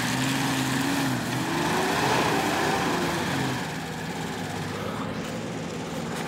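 Four-wheel-drive vehicle's engine running under load, its revs rising from about a second in and falling back, then it grows quieter after about three and a half seconds.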